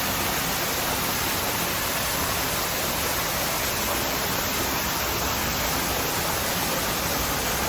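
Indoor exhibit waterfall splashing: a steady, even rush of falling water.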